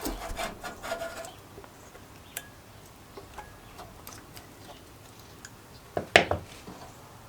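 Tools and small metal parts being handled during carburetor disassembly: a cluster of clicks and knocks at first, then scattered light ticks, and a louder knock and clatter about six seconds in.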